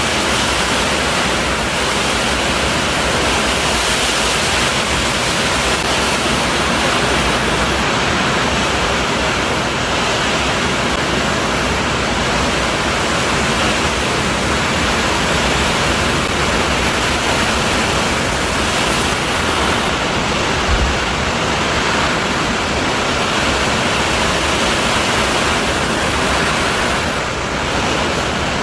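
Strong wind and rain making a steady, loud rushing noise, with one brief low thump about three-quarters of the way through.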